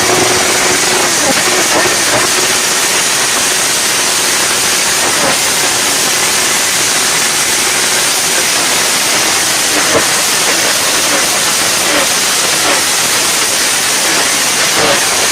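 A steady, loud hiss of rushing noise, with no clear engine note standing out.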